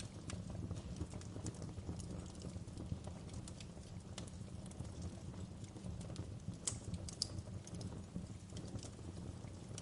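Wood fire crackling in a fireplace: a steady stream of small irregular pops and snaps over a low, even rumble, with two sharper pops a little past the middle.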